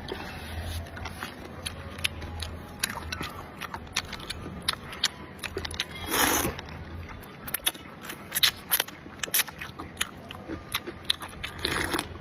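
Close-up eating sounds: a person biting and chewing food, with many short crunchy clicks. A longer, louder burst of noise comes about six seconds in and again near the end.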